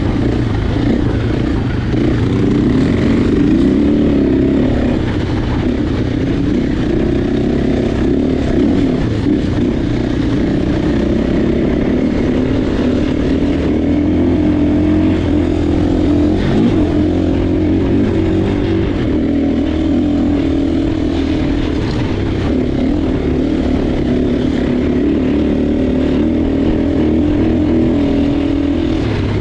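Motocross motorcycle engine running continuously while riding, its pitch rising and falling slightly with the throttle.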